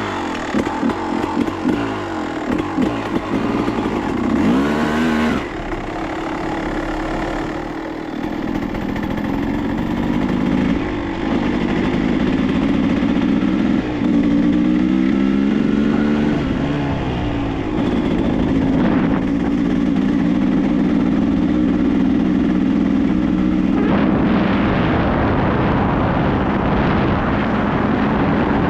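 Dirt bike engine revving and shifting through the gears while riding, its pitch climbing and dropping several times, then holding steady at speed near the end.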